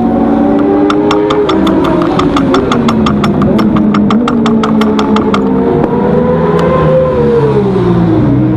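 Suzuki GSX-R600 race bike's inline-four engine running hard on track. Its pitch drops, climbs again, then drops near the end. A fast, even run of ticks, about five or six a second, sounds over the engine for the first half.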